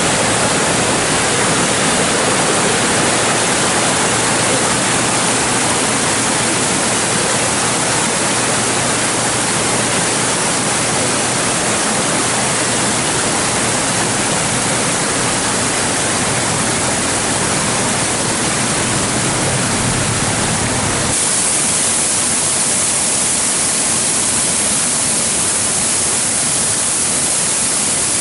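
Rushing water of a mountain stream and waterfall, a loud, steady roar. About three-quarters of the way through it changes abruptly to a hissier sound with less low rumble.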